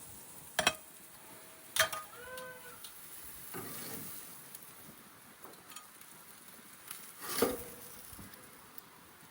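Meat on a grill sizzling faintly, broken by three sharp clinks. The second clink rings on briefly, like metal or crockery being struck.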